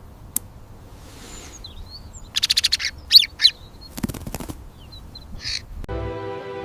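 Bird sounds: a rapid rattling run of chirps, then a few sharp sweeping chirps and a brief low flutter about four seconds in. Soft music with held notes comes in near the end.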